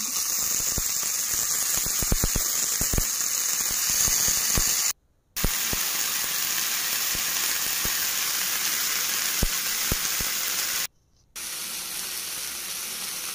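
Paneer tikka skewers (marinated paneer, onion and capsicum) sizzling in hot oil on a stovetop grill pan: a steady hiss with many crackles and pops in the first few seconds as the pieces go on, calmer later. The sound drops out for a moment twice.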